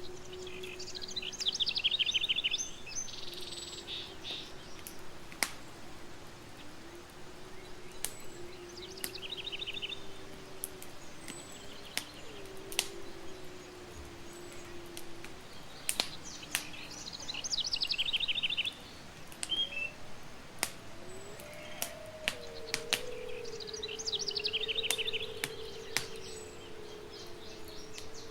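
Campfire crackling with scattered sharp pops, while a bird sings a rapid high trill four times, every seven or eight seconds. A low wavering tone runs underneath.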